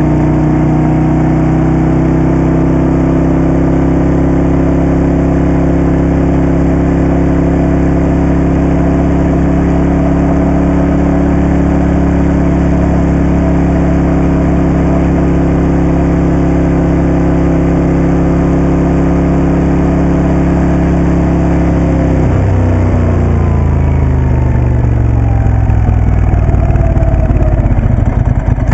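Moto Guzzi Café Sport's V-twin engine running at a steady speed. About three-quarters of the way through, the engine note falls steadily as the revs drop.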